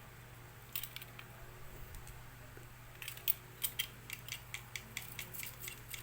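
Cutter blade scraping melted laminating film off a laminator's heated roller: a few light scrapes about a second in, then a quick run of short scratchy strokes from about three seconds in, over a steady low hum.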